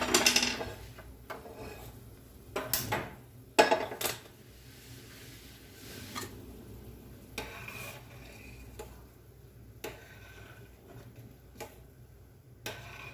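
Cooking pots and utensils being handled: a few sharp clatters and knocks in the first four seconds, then lighter scattered clinks, as water is put on to heat.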